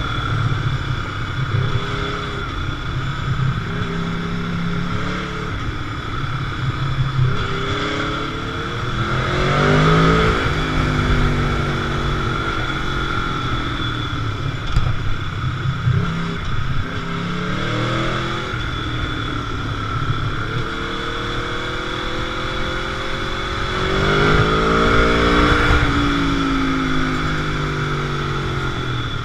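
Motorcycle engine under way, accelerating hard through the gears twice, with the pitch climbing in steps, and dropping back in between as the rider rolls off.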